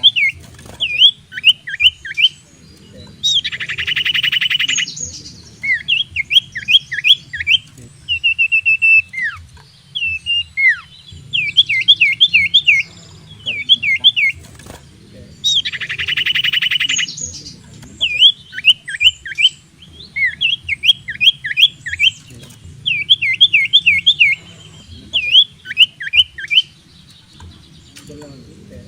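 Common iora song: groups of three to five quick downslurred whistles, with a buzzy rattling trill about three seconds in and again about sixteen seconds in. The sequence repeats over a faint low hum.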